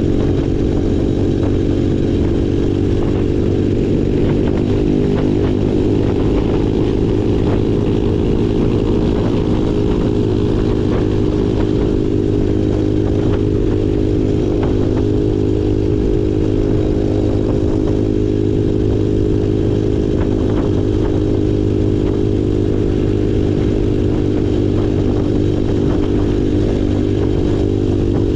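Small single-cylinder off-road engine running at a fairly steady speed under way, with light rattling and clatter from the ride over rough ground.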